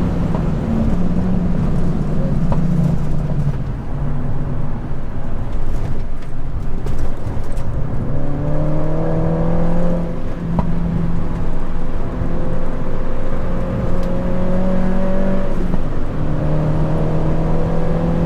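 Mini Roadster's four-cylinder engine driven hard on track, heard from inside the cabin: the note climbs in long pulls and drops in steps as the driver changes gear and lifts.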